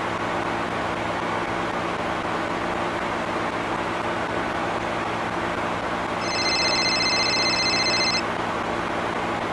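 Car engine idling steadily. About six seconds in, a high electronic ringing tone sounds for about two seconds.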